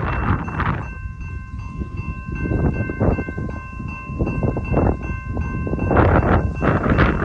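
BNSF eastbound intermodal freight train passing, a steady rumble with gusts of wind on the microphone. From about a second in, a steady chord of several ringing tones sounds over it.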